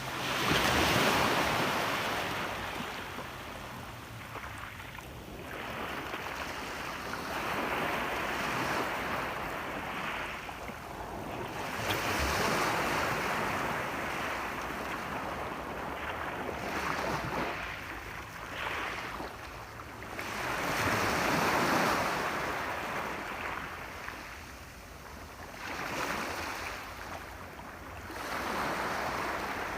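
Sea waves breaking and washing up the shore, the surf noise swelling and fading about every four to five seconds.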